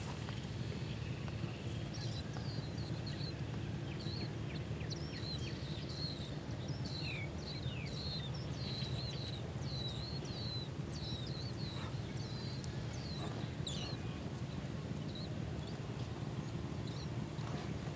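Small birds chirping: a quick run of short, high chirps, some sliding down in pitch, from about two seconds in until about fifteen seconds in, over a steady low background rumble.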